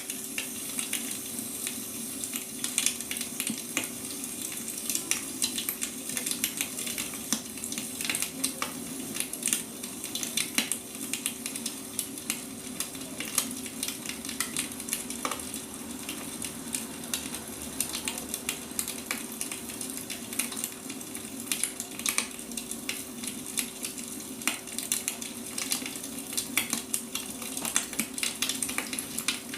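Wood fire burning, firewood crackling and popping irregularly over a steady hiss, with a constant low hum underneath.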